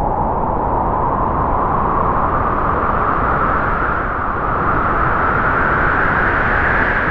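A strong gust of wind, a loud steady rush whose main band slowly rises in pitch.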